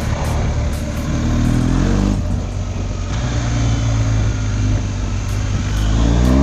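BMW R 1250 GS boxer-twin engine revving up over about two seconds, dropping back sharply, running steadily, then revving up again near the end.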